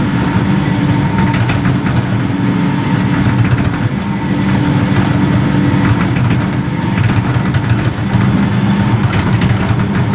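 Reach stacker's diesel engine running steadily, with a constant low engine drone.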